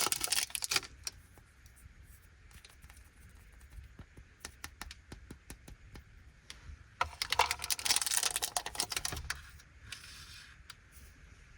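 Plastic wrappers of small Anpanman chocolate packets crinkling as they are opened, with a run of quick light clicks and taps in between as they are handled. A louder burst of crinkling comes about seven seconds in.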